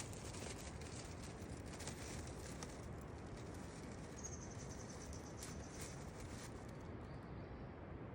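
Faint outdoor nature ambience: a steady low background hiss with scattered thin, high insect-like chirps and ticks, and a single thin high whistle held for about a second and a half near the middle.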